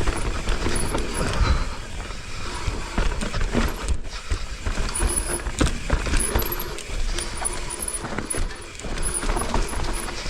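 Mountain bike rolling down a dirt trail: wind buffeting the microphone as a steady low rumble, with the tyres on dirt and a stream of small clicks and knocks as the bike rattles over bumps.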